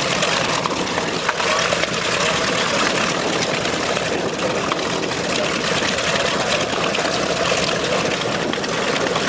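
Propeller-driven aircraft engine running with a steady drone, with a mix of voices under it.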